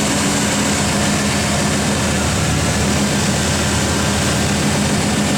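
Old Chevrolet truck's 350 small-block V8 running steadily just after firing up for the first time in about eight years of sitting, sounding good and even.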